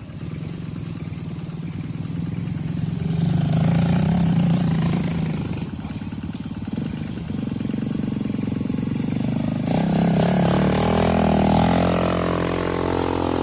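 An engine running, its pitch and loudness rising and falling as it revs, loudest about four seconds in and again near the end.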